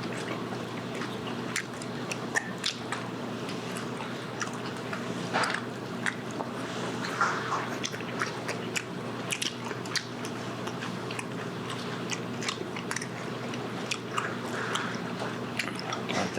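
Close mouth sounds of people chewing and biting charcoal-grilled pork belly, with many short wet clicks and smacks scattered through, over a steady low hum.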